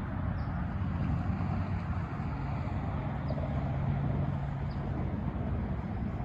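Motor vehicle running nearby: a steady low engine rumble, with a steady hum that holds for a couple of seconds midway.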